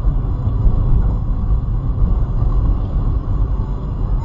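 Steady low rumble of a car on the move: road and engine noise, with no sharp impact.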